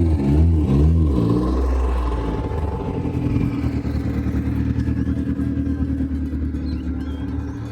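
A car engine revved in a few quick blips, then running on at a steady low pitch.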